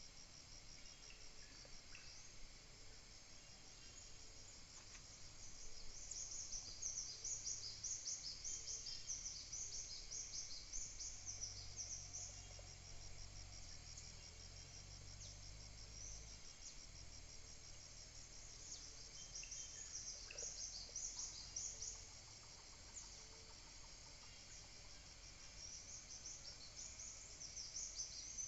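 Steady high insect chirring, with stretches of brighter, rapid high-pitched twittering layered over it a few seconds in, again past the middle, and near the end.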